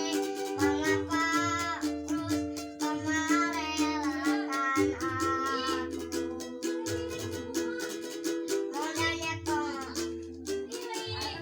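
Four-string ukulele strummed in a quick steady rhythm, with a child singing the melody in phrases over it and a low pulsing beat underneath.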